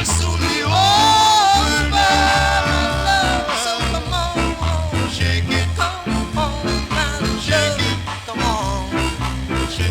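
Jamaican rocksteady record playing from a 1967 vinyl 45: a vocal group with band over a prominent, repeating bass line.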